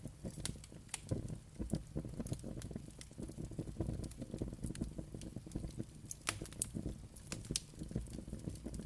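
Wood fire burning steadily, with a low rumble of flame and frequent small crackles and pops, a few sharper pops a little after six seconds in.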